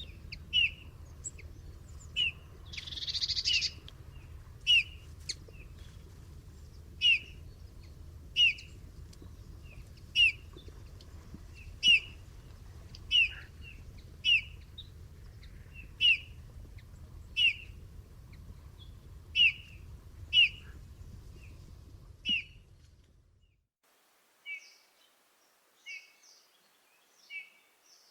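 Bullfinch calls: soft, short down-slurred piping whistles repeated about every one and a half to two seconds over a low background hum. A brief rustling hiss comes about three seconds in. Near the end the hum cuts off and a few more whistled calls follow on a quiet background.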